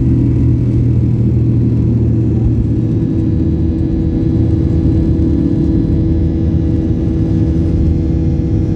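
Airplane engines running during takeoff: a loud, steady low rumble with a constant hum.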